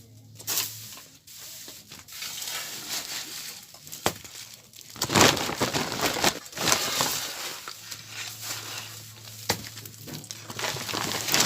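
Crunching and crackling handling noises with sharp clicks, loudest for a couple of seconds around the middle.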